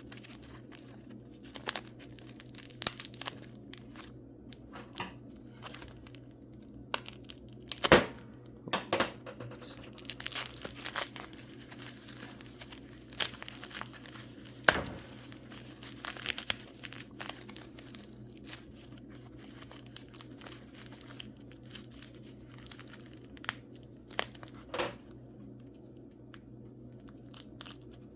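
Packing wrapping being crinkled and torn off mineral specimens by hand, in irregular bursts of crackles and clicks, the loudest about eight seconds in, over a steady low hum.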